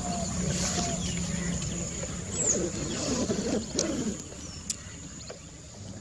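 Outdoor wildlife ambience with birds calling over a steady high-pitched hum: a short, falling call repeats about once a second early on, then a cluster of wavering calls comes in around the middle and fades.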